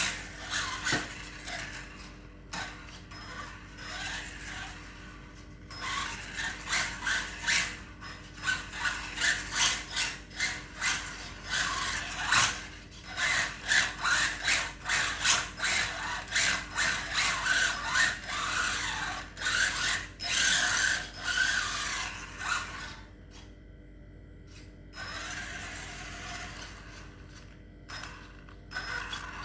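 Brushless RC drift car's motor and gear drivetrain whirring and rattling in many short, irregular bursts, with a quieter stretch about three-quarters of the way through.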